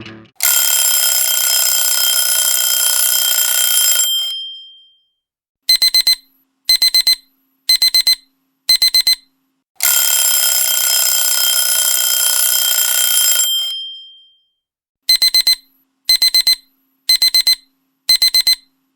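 Alarm sounds: a ringing alarm bell sounds for about four seconds and dies away, then four groups of quick high beeps follow about a second apart. The whole sequence then repeats once.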